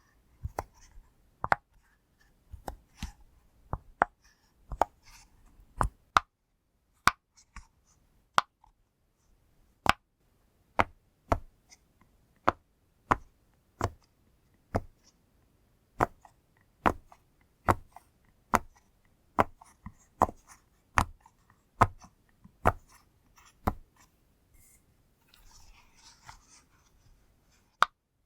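Bubbles of a push-pop fidget toy being pressed one at a time, a sharp pop about once a second, with a short soft rustle near the end.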